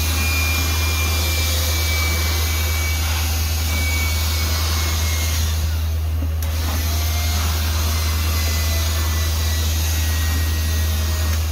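BLACK+DECKER Dustbuster cordless handheld vacuum running steadily, with a high motor whine that drifts slowly lower.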